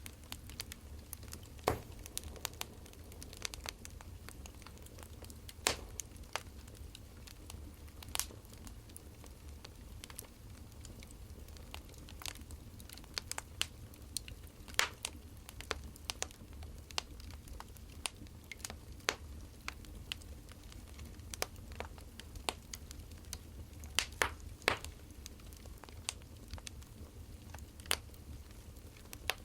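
Wood fire crackling: irregular pops and snaps over a low steady rumble.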